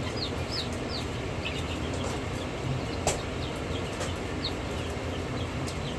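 Baby chicks peeping: scattered short, high, falling peeps, with a single sharp click about three seconds in, over a steady low hum.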